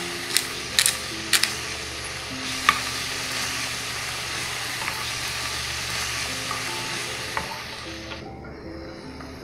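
Chicken strips and onion sizzling as they fry in a pan, a steady hiss that dies down near the end. A few sharp clicks of a pepper grinder come in the first second and a half.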